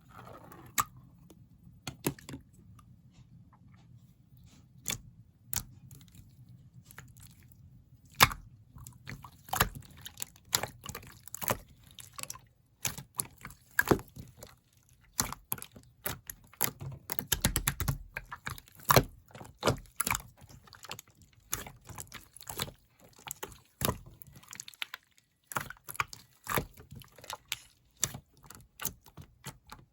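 Soft, jiggly jelly-textured slime being squished and poked by hand, giving irregular sticky clicks and pops that come much thicker from about halfway through.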